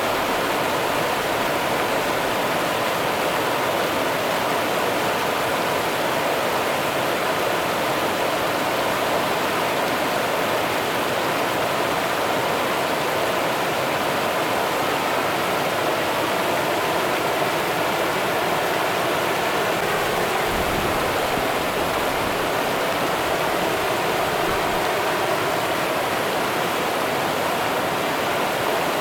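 Rio Grande river water running, a steady even rush with no breaks.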